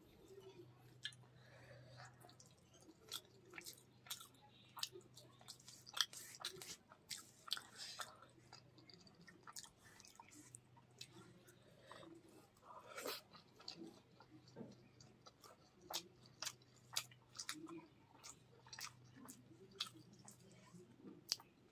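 Close-miked chewing of a mouthful of rice and fish curry: soft, wet, irregular mouth clicks and smacks. Fingers mixing the curry-soaked rice on a banana leaf add light squishing and rustling.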